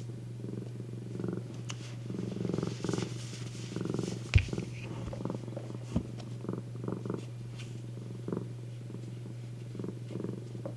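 Domestic cat purring, swelling and fading with each breath. A sharp click about four seconds in, and a softer one about two seconds later.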